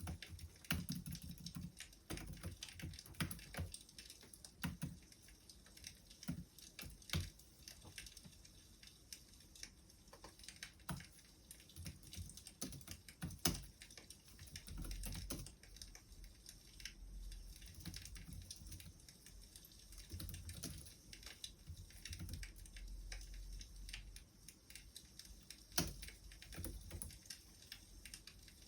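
Irregular quick clicks and crackles, some sharper than others, over a faint low rumble.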